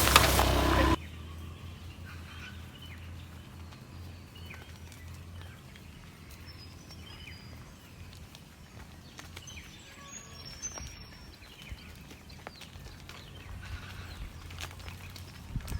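Quiet rural ambience with faint, scattered high bird chirps over a low steady hum. Before it, a loud noisy sound cuts off abruptly about a second in, and a few louder knocks come near the end.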